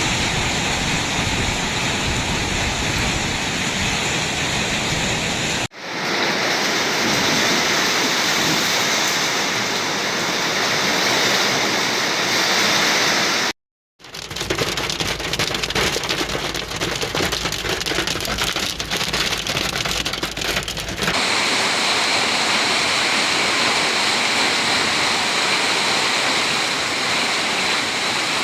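Heavy rain mixed with small hailstones pouring down, in several joined clips with abrupt cuts between them. In the middle stretch, dense rattling of many small hail impacts stands out over the rain.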